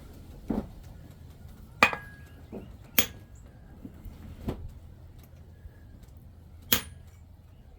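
Hammer striking metal while a pure silver ring is forged: about five sharp blows at uneven intervals, a second or more apart, some followed by a brief ring.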